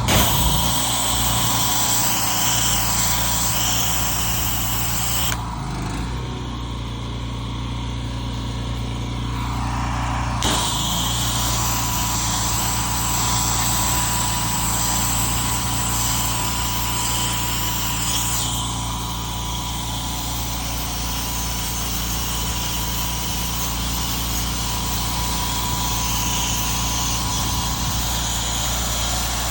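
Pressure washer's engine running steadily while the spray wand rinses wood, with a hiss of high-pressure water spray over it. The spray hiss drops out for about five seconds from roughly five seconds in, then returns.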